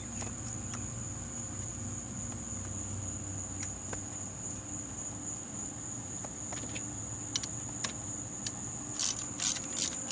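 A steady high-pitched cricket trill, with a quick run of sharp metallic clicks near the end. The clicks fit a socket wrench tightening the new spark plug.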